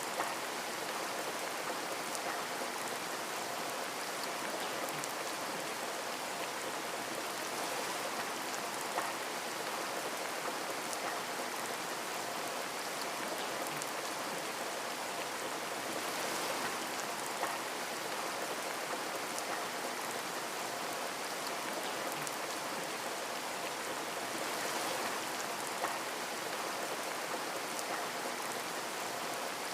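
Steady rain pattering on a window, with a few louder single drops ticking against the glass now and then.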